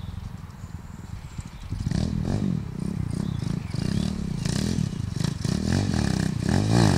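Pit bike engine running low and steady, then revved up and down repeatedly from about two seconds in, its pitch rising and falling with each throttle blip.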